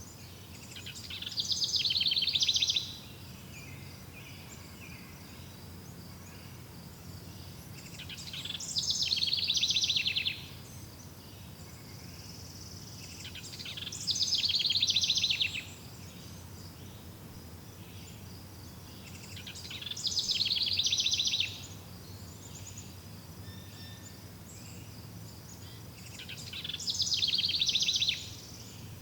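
A songbird repeats a fast trilled song five times, about every six seconds. Each phrase builds in loudness over about two seconds and then stops abruptly. Faint steady insect chirring and a low background hum run underneath.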